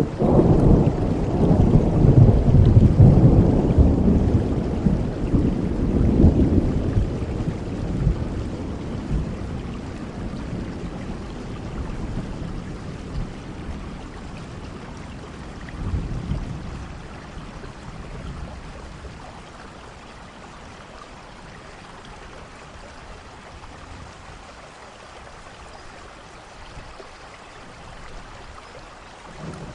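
Steady rain with rolling thunder: a loud, low rumble through the first several seconds that slowly dies away, a smaller rumble about halfway, and another starting just at the end.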